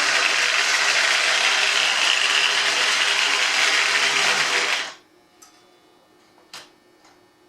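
A 1963 Lionel Scout toy train locomotive running in reverse, its electric motor and gears whirring loudly and steadily, then stopping abruptly about five seconds in. A few faint clicks follow.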